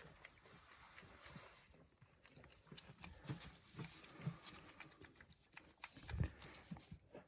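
Faint rustling and scattered small knocks of goats moving about in their pen, with one louder thump about six seconds in.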